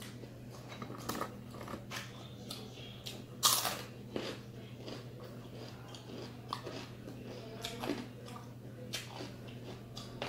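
A person chewing crispy fried chicken skin close to the microphone, with irregular crunches, the loudest about three and a half seconds in.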